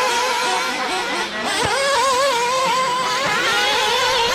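Engines of 1/8-scale RC racing buggies running at high revs, a steady whine whose pitch keeps wavering up and down with the throttle.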